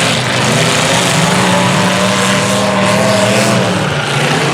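Several large race trucks' engines running and revving at once, loud and steady, their pitches wavering up and down.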